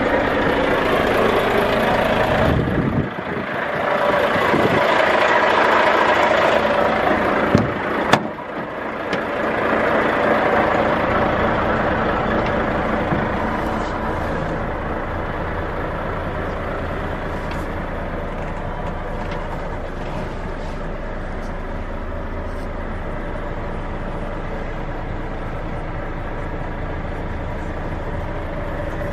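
Volvo FH500's 13-litre six-cylinder diesel engine running. It is louder and uneven for the first dozen seconds, with two sharp clicks about seven to eight seconds in, then settles to a steady idle.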